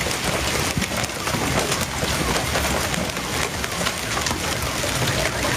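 Heavy hail falling: a dense, unbroken clatter of countless hailstones striking hard surfaces.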